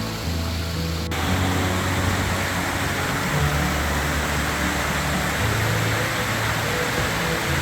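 Steady rushing of a waterfall, coming in with a cut about a second in, over background music with slow bass notes.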